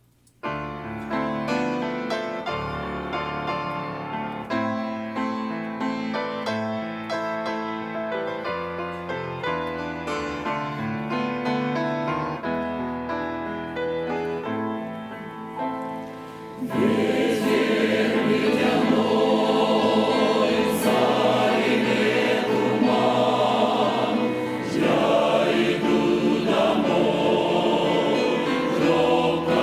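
Church choir performing a Russian-language song: an instrumental introduction of held, stepped notes, then the full choir comes in singing a little over halfway through, clearly louder.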